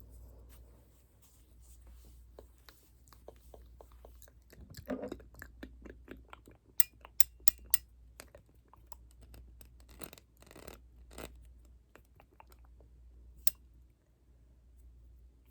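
Close-miked ASMR trigger sounds: soft scratching and brushing, broken by small clicks, with four sharp clicks in quick succession about seven seconds in and one more near the end.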